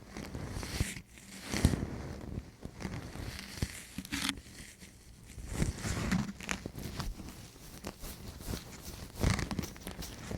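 Close-miked ASMR ear-cleaning sounds: an ear-cleaning tool scratching and rustling against the microphone in uneven strokes, with small crackles and clicks.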